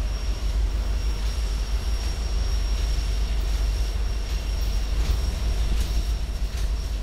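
Freight train of gondola cars rolling past close by: a steady low rumble of wheels on rail, with a thin steady high-pitched squeal and a few faint clicks in the second half.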